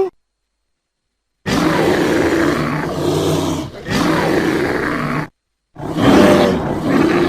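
Bear growling: a rough growl of about four seconds, with a brief break partway through, then a pause of dead silence and a second growl near the end.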